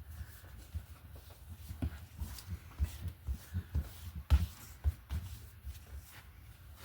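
Irregular light thumps and taps of art materials being handled and set down on a worktable, the loudest knock about four seconds in.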